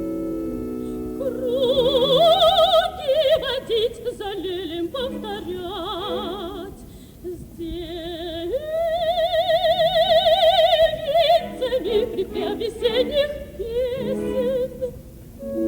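Operatic soprano singing long, high notes and runs with a wide vibrato, with no clear words. Sustained orchestral chords are heard at the start before the voice enters.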